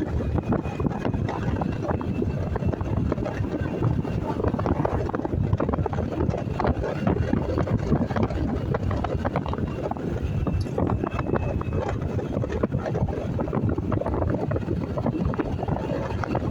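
Wind rushing over the microphone of a moving motorcycle, a steady, dense noise with the road and engine running underneath.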